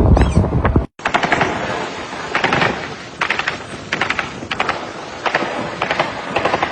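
Repeated short bursts of automatic gunfire, a cluster of rapid shots roughly every second. It follows a louder rumbling sound that cuts off about a second in.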